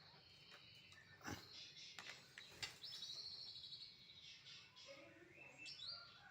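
White-rumped shama (murai batu) singing faintly in whistled phrases that glide up and down, after two sharp clicks in the first half.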